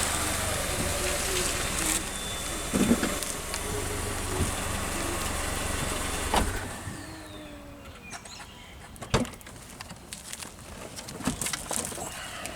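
A car running, with a steady low hum, that drops away about six and a half seconds in. Scattered clicks and knocks follow.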